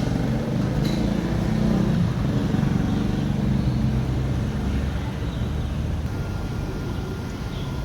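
Huebsch washing machine running: a steady low motor hum with several pitched lines that swell a few seconds in and ease off toward the end.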